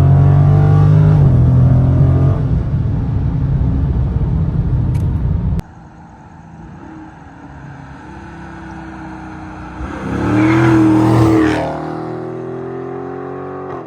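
V8 muscle car's exhaust running with a loud, steady low drone that cuts off abruptly about five and a half seconds in to a quieter engine sound. About ten seconds in, a louder swell rises and falls over a couple of seconds, then the engine settles to a steady tone.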